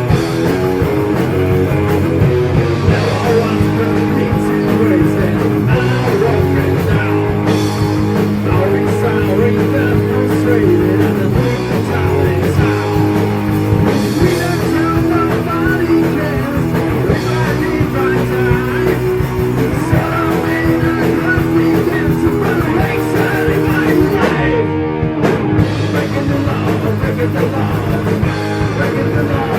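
Heavy metal band playing: electric guitars over bass and drums, loud and steady.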